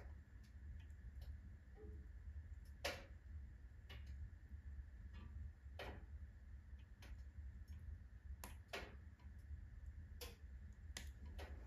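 Firewood burning in a wood-burning stove, faintly crackling with irregular sharp pops, a louder pop about three seconds in, over a low steady rumble.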